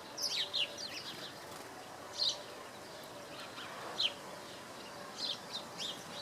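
Small garden songbirds chirping: short, high notes in scattered clusters, the busiest about half a second in, then single notes every second or two.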